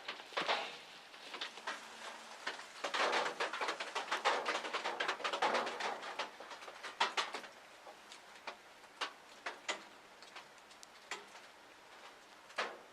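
Irregular ticks and taps of raindrops dripping onto a hunting blind, with a denser spell of rustling and clicking from about three to six seconds in.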